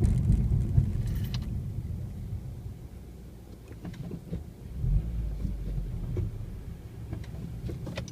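A Honda Civic Si's engine and drivetrain heard from inside the cabin: a low rumble that eases off, then picks up again about five seconds in as the car pulls away in first gear.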